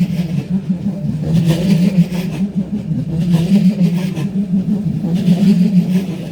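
Train running through the station: a steady low electric hum with recurring rattles from the wheels and cars.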